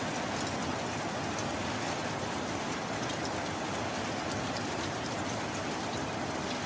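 Steady heavy rain falling, an even hiss with scattered sharp drop ticks.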